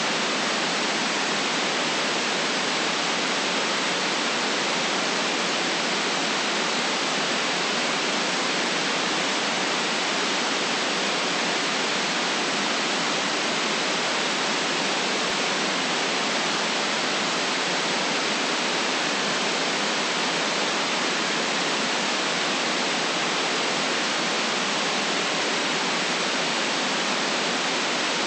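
Steady synthetic white noise: an even, unchanging hiss with no low rumble beneath it.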